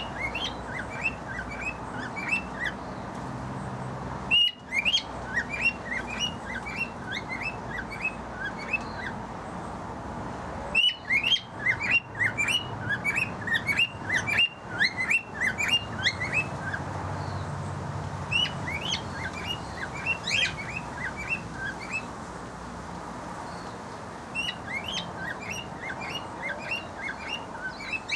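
Aviary birds chirping in runs of short, quick high notes, several a second, coming in bursts with brief pauses between.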